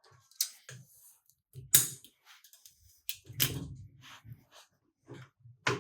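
Workshop hand-tool work fitting a dirt-bike foot peg and its spring to the frame mount: a few sharp metal-on-metal knocks and clinks, the loudest about two seconds in and again near the middle, with softer low thumps between.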